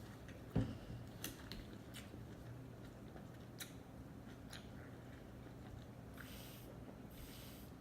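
Close-miked chewing of sushi, with soft wet mouth clicks; a dull knock about half a second in and two short hisses near the end.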